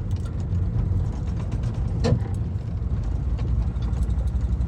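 VW T3 van running on the road, heard from inside the cab as a steady low drone, with a brief creak about two seconds in.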